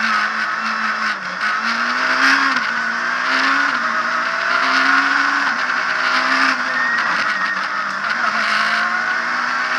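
Abarth Punto S2000 rally car's 2.0-litre four-cylinder engine heard from inside the cabin, revving up hard under acceleration and dropping in pitch at each of several quick gear changes, over steady road noise.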